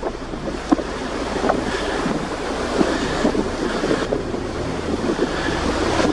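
Strong wind gusting against the microphone: a steady rushing with a low rumble, a few small ticks over it.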